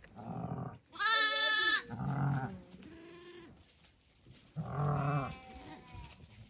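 A young lamb bleating: about five bleats, the loudest and highest one about a second in, with fainter ones after.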